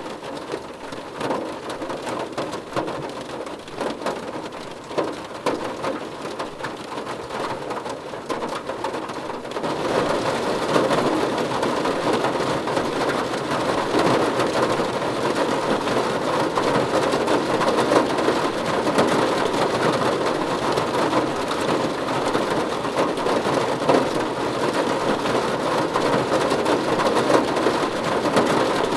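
Steady rain falling and pattering on a surface, a dense hiss of many drops that grows heavier and louder about a third of the way in.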